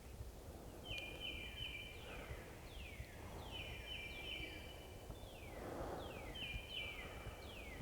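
A songbird singing the same phrase three times, about every three seconds: a few short level whistled notes followed by two or three quick falling slurred notes, over faint outdoor background noise.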